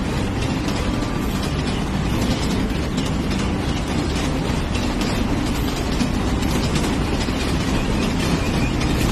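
Heavy machinery running: a steady low engine rumble under a dense, even rattle of rapid clicks.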